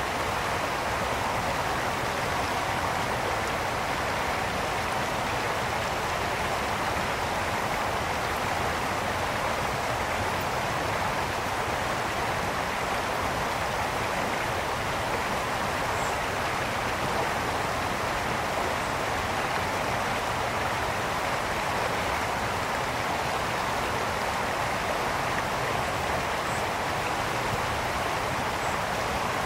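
Mountain brook flowing over rocks: a steady rushing and babbling of water.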